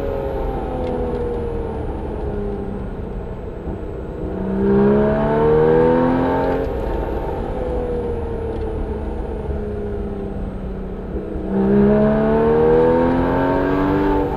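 Porsche 981 Cayman S flat-six through a Soul Performance exhaust, pulling up through the revs twice, about four and about eleven seconds in, louder each time it climbs. Between the pulls the engine note falls slowly as the revs drop.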